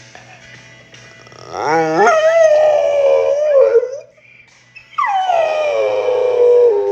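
A dog howling twice. The first howl sweeps steeply up about a second and a half in, then holds with a wavering pitch for about two seconds. The second starts high about five seconds in and slides slowly downward.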